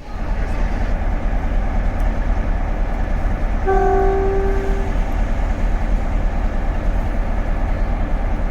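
Class 47 diesel locomotive running with a heavy low engine rumble, its horn sounding one steady note for about a second a few seconds in.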